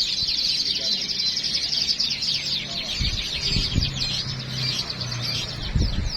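Many caged songbirds singing at once, a dense unbroken chatter of rapid high chirps and trills. A low steady hum sits under it through the middle, with a couple of low thumps.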